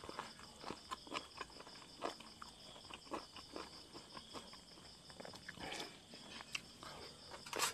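A person chewing and smacking their lips close to a lapel mic: irregular wet clicks and smacks, with a louder smack near the end. A steady high chirring of crickets runs underneath.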